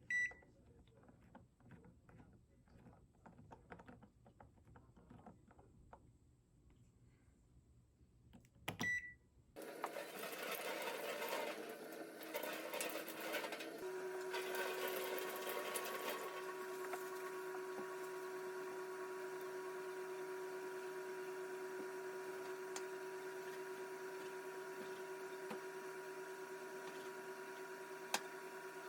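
An electric appliance beeps briefly twice, then starts running with a steady motor hum, rougher for the first few seconds.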